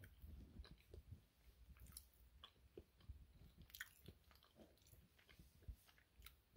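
Faint chewing: a man chewing a bite of baked mantis shrimp meat, with soft mouth clicks and smacks scattered throughout.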